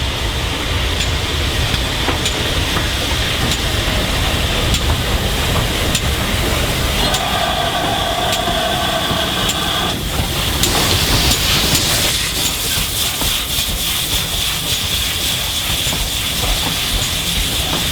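Steam train hauled by GWR Churchward 2-8-0 locomotive 2857 running on the line, a steady rumble with faint regular ticks. A high steady tone sounds for about three seconds past the middle, followed by a burst of hiss.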